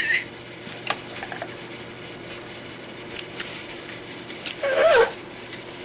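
A pet parrot giving one short, wavering call about five seconds in, over light scattered clicks and taps.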